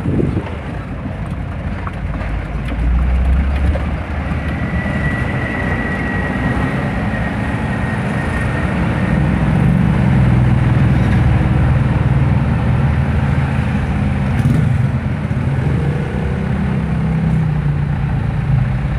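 A large engine running, a steady low drone that grows louder a few seconds in, with a faint high whine for a few seconds.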